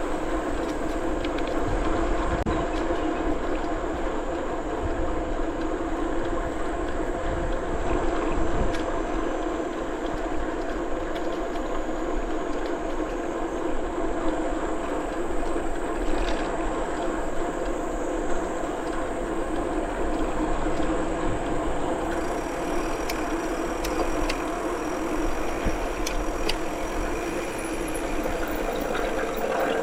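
Bicycle rolling steadily along the trail: a continuous hum of tyres and drivetrain with a low rumble of wind on the microphone.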